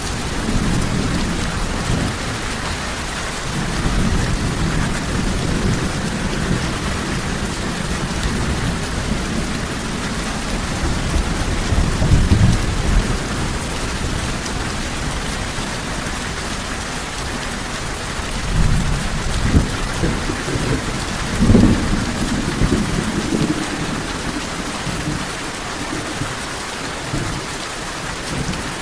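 Steady heavy rain falling, with rolling thunder rumbling several times, most strongly about twelve seconds in and again in the last third.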